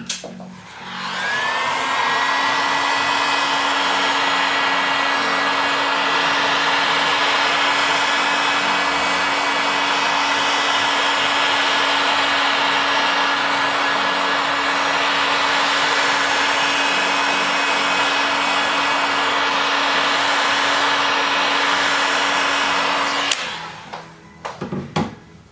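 Hot-air heat gun blowing steadily, switched on about a second in and cut off near the end, with a steady hum under the rush of air. It is heating the phone to soften the adhesive holding the glass.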